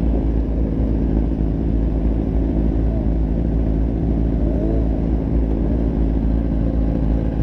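Motorcycle engine running steadily while riding, its even engine note over a constant low rumble.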